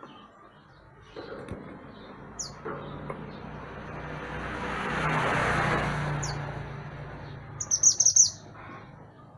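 Mantenan gunung songbird calling: a few short, sharp, high chirps, then a quick loud burst of them near the end. A background noise with a low hum swells and fades in the middle.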